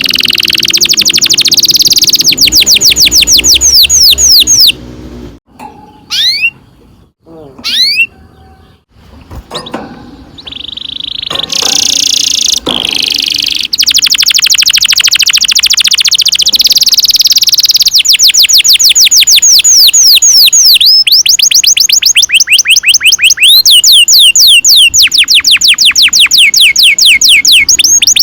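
Domestic canary singing long rolls: fast trills of rapidly repeated, downward-sweeping high notes. About five seconds in the song breaks off into a few seconds of scattered single chirps, then resumes in long unbroken rolls.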